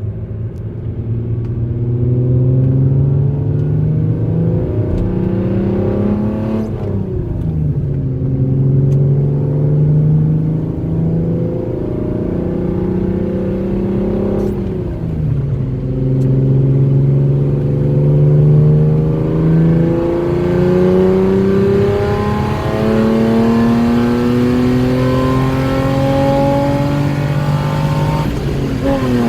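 BMW E36 325i's straight-six engine pulling hard through the gears: its note climbs slowly and steadily, then drops suddenly at each upshift, three times.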